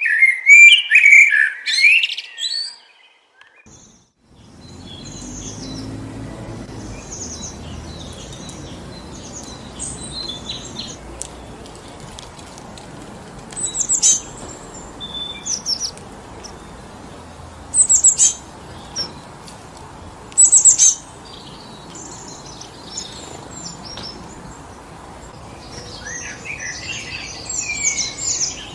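Songbirds chirping over a steady rush of wind through trees. It opens with a loud run of calls, then there is a brief gap a few seconds in. After that the wind rush continues with scattered sharp, high chirps, three loud ones in the middle, and a busier bout of birdsong near the end.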